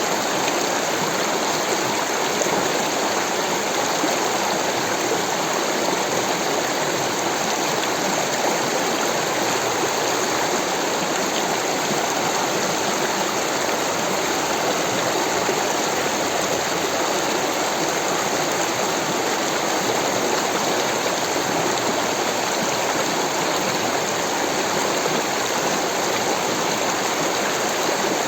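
Rushing stream water, a steady unbroken rush and splash.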